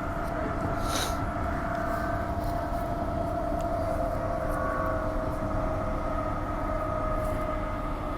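Transperth A-series electric multiple unit running, heard from inside the train: a steady rumble with a whine of several tones that sinks slowly in pitch. A single sharp click about a second in.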